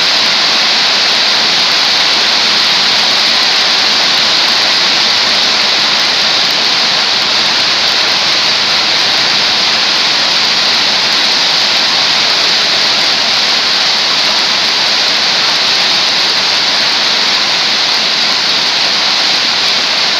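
Heavy tropical rain falling steadily: a loud, even hiss of a downpour that does not let up.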